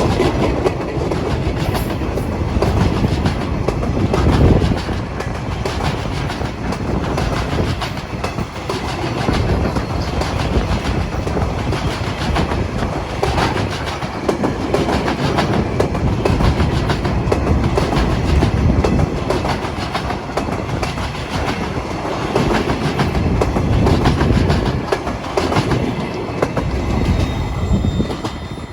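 Freight train wagons rolling past, their wheels clicking rhythmically over the rail joints, fading near the end.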